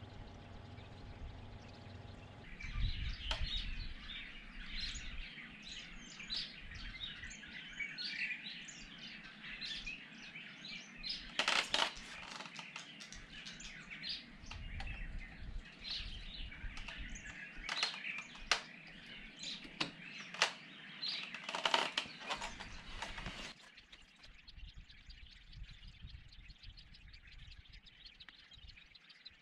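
Small birds chirping and twittering busily, with a few sharp clicks or knocks scattered through the middle. The birdsong cuts off abruptly near the end, leaving only faint background noise.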